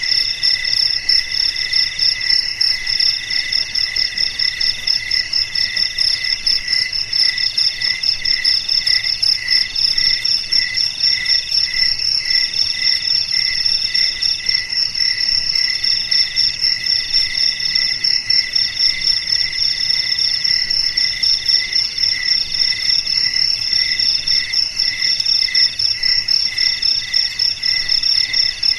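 Crickets chirping in a steady chorus of several pitches: a fast high trill, a lower chirp pulsing about twice a second, and a middle trill that comes and goes every second or so.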